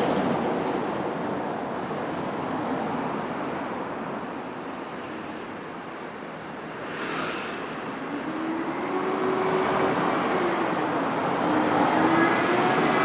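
Steady road traffic noise, with a short hiss about halfway through. Then the wavering engine hum of a passing vehicle grows louder toward the end.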